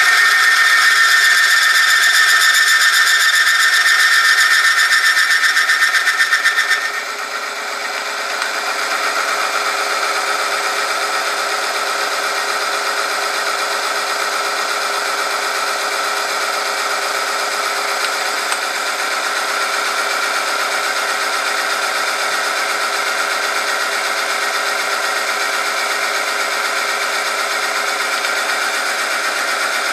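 Oil-film friction test machine running: a motor-driven steel roller grinding against a loaded steel test sample lubricated with Liqui Moly Diesel Synthoil 5W40, a steady metallic whine. About seven seconds in a high squeal cuts out and the grinding settles to a slightly quieter, even sound.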